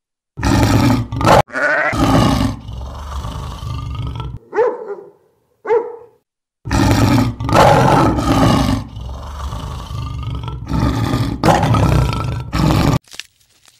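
An animal's loud, rough roaring and growling calls in three long bursts, with two short higher calls in the gap between the first and second.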